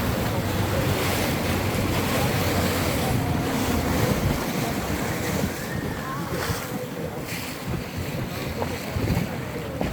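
Tour boat's engine running under the splash and wash of sea water against the hull, with wind buffeting the microphone. The low engine hum fades about halfway through, leaving mostly water and wind.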